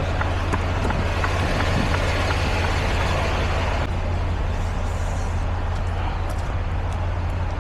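Semi-truck's diesel engine idling steadily, with a hiss of rain and a few light clicks; the hiss eases about four seconds in.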